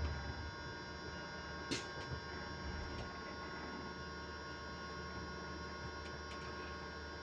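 Electric bus's electrical system giving off a steady whine of several high tones at constant pitch over a low hum. A single sharp click sounds about two seconds in.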